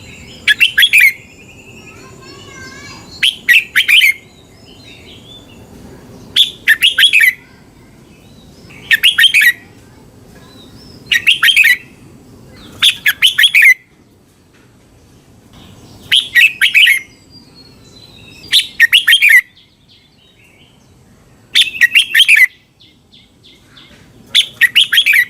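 Red-whiskered bulbul repeating its short, bright song phrase about ten times, roughly once every two to three seconds, with faint softer twittering between phrases.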